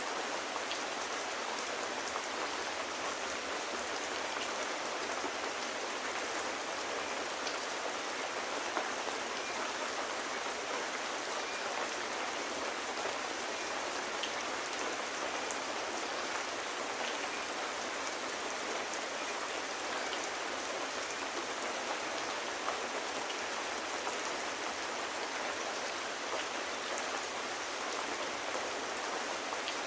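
Steady, even rain falling on surfaces, with scattered small drop ticks.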